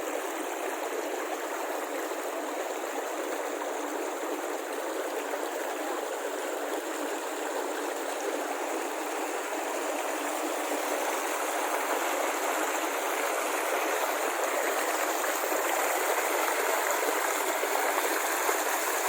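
Flowing water rushing steadily, with no breaks, growing a little louder in the second half.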